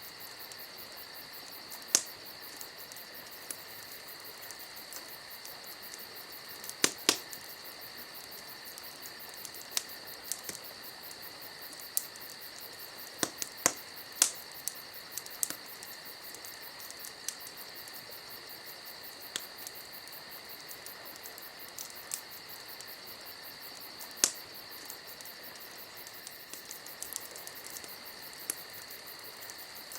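Crickets chirping steadily, with the sharp pops and crackles of a wood campfire scattered irregularly through it, a few of them loud.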